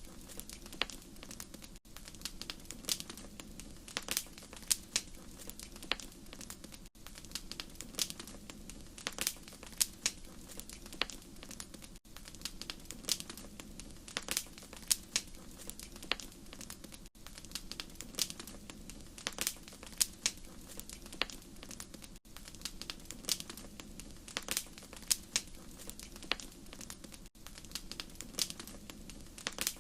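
Fireplace fire crackling: frequent irregular sharp pops and snaps over a steady low rumble, with a brief dip in sound about every five seconds.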